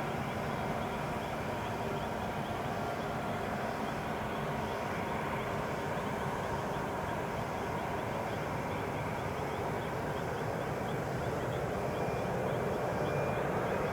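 Jet engines of a Boeing 777F cargo plane, its GE90 turbofans giving a steady rush with faint whining tones, growing slightly louder near the end.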